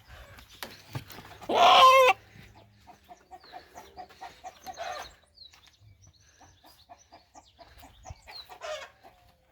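Rooster being slaughtered: one loud squawk about a second and a half in, then a run of soft, short repeated clucks.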